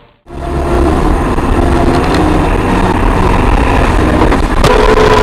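Car driving: loud engine and road noise with a heavy low rumble, picked up by a dashcam. A steady tone comes in near the end.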